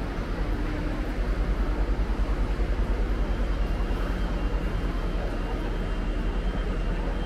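Train running through the station: a steady low rumble with rapid pulsing in loudness, and a faint thin high whine from about three seconds in.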